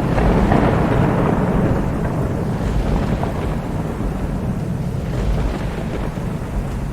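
Thunder rumbling over steady rain: a swell of thunder right at the start that slowly dies away over several seconds while the rain runs on.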